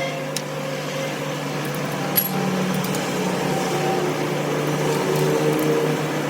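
A steady low machine hum, with a single sharp click about two seconds in.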